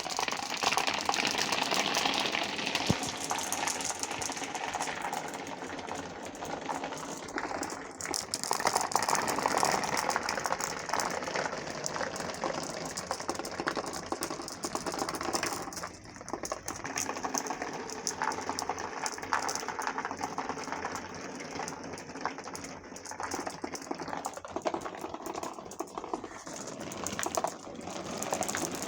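Many marbles rolling and clattering through a marble run, a steady dense rattle of small clicks that swells and eases over time.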